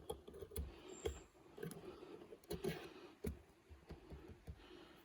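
Faint, irregular light clicks and taps of small wooden sticks being worked loose and pulled out of a freshly glued joint.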